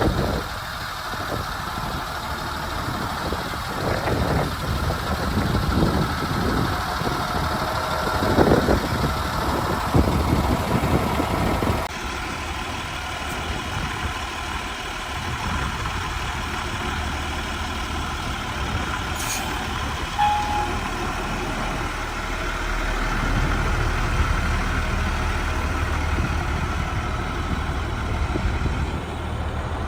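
2002 Ford F750 Super Duty truck's engine idling steadily; the sound changes abruptly about twelve seconds in.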